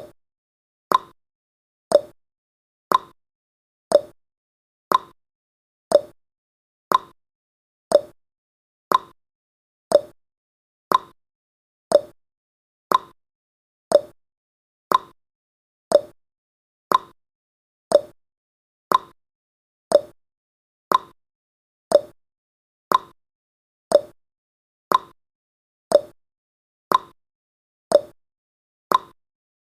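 Countdown timer's ticking sound effect: one short tick every second, each dying away quickly.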